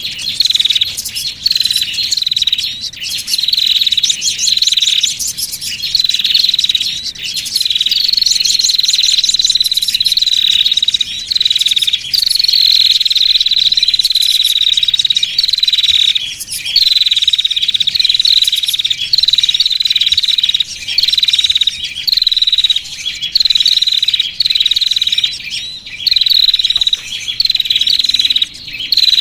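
Small-bird lure recording: a high, rapid, buzzy trill that is repeated in phrases about once a second, each phrase ending in a short downward flick. In places the phrases run together into longer unbroken trills.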